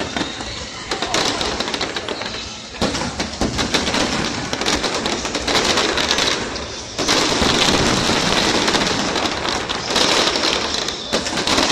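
Large aerial fireworks display: a dense barrage of shell bursts and crackle, thickening into a steady, louder crackle about seven seconds in.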